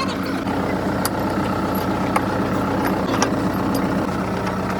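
An engine idling steadily, with a few short light clicks, as of metal tapping, about one, two and three seconds in.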